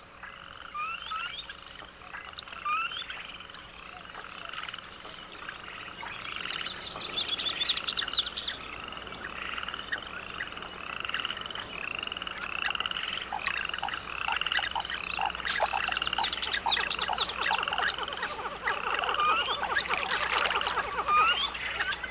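A chorus of animal calls: short curved chirps repeated about one and a half times a second, overlapping more and getting louder in the second half.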